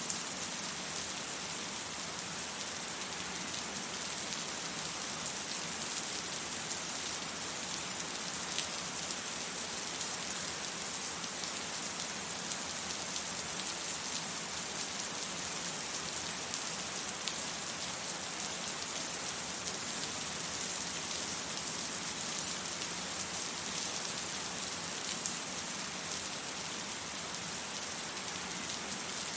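Steady rain falling on hard surfaces, an even hiss with scattered fine drop ticks and no thunder.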